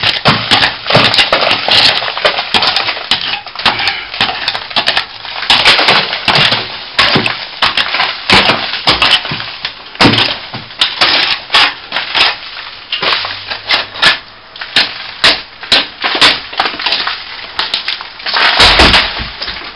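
A hand tool scraping and chipping at a crack in a plaster wall, with many rapid irregular scratches and crumbling bits of loose plaster.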